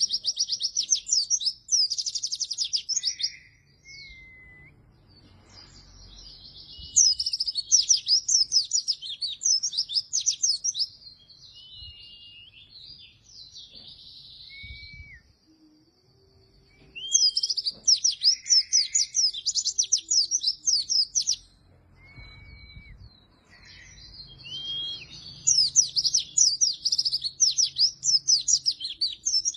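White-eye (pleci) singing in lively bursts of rapid, high twittering song, each a few seconds long, separated by single short whistled notes; four bursts in all.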